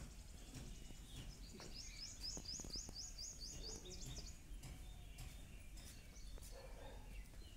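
A bird singing a quick run of about ten high, rising chirps lasting about two seconds, over faint steady background noise with a few light clicks.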